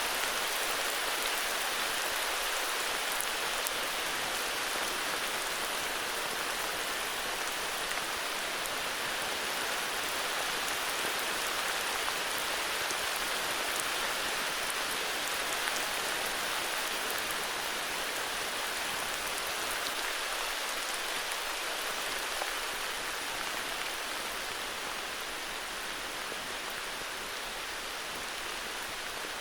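Steady heavy rain falling on a forest, an even hiss of rain with scattered individual drops ticking through it.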